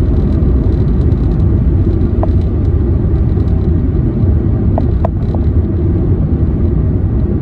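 Steady low road and engine rumble of a car being driven, heard from inside, with a few brief high squeaks about two seconds in and again around five seconds in.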